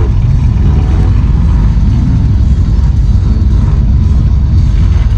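Loud, steady low rumble of car engines and exhausts.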